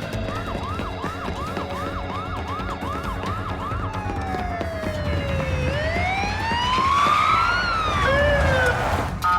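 Emergency vehicle siren, first in a fast yelp of about two sweeps a second, then switching to a slow wail that falls, rises and falls again, with a second siren tone overlapping near the end before it cuts off suddenly.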